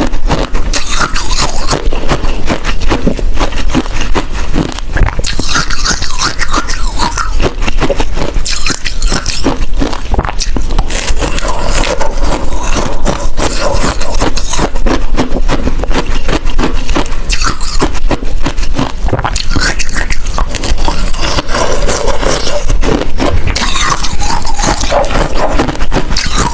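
Close-miked ice chewing: a continuous run of sharp crunches and cracks as pieces of hard ice are bitten and chewed.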